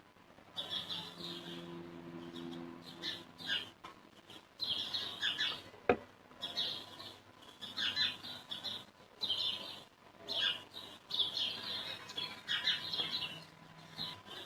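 Small birds chirping in repeated short bursts, with a single sharp knock about six seconds in.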